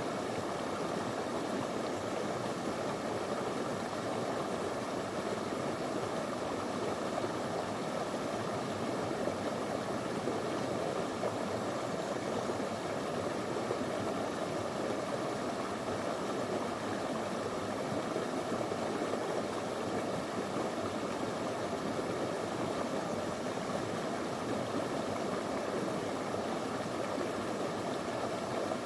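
Small clear river running over stones: a steady, even rush of water.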